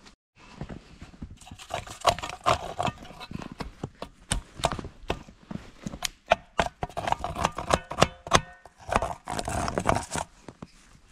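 Hand saw cutting through a snow-covered dead log in rhythmic back-and-forth strokes, the teeth rasping through the wood.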